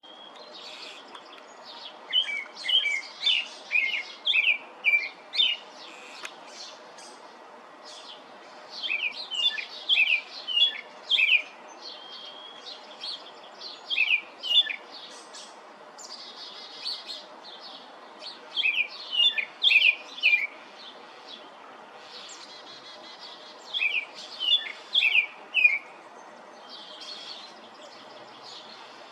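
A robin singing: about five phrases of quick, high, varied warbling notes, each a second or three long, separated by pauses of a few seconds, over a steady low background noise.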